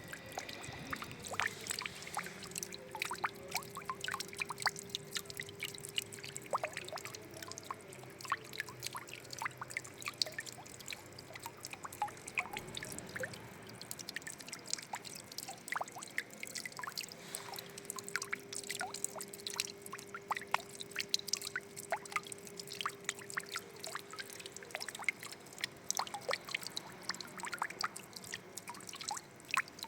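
Water trickling and pouring continuously, with many small irregular drips and splashes.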